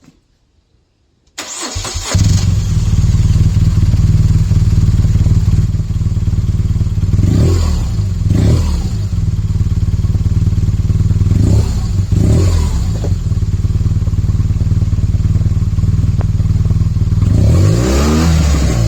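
2011 BMW R1200GS boxer-twin engine on its stock exhaust, starting about a second and a half in and then idling. It is blipped four times in two pairs, with a longer rev and fall near the end.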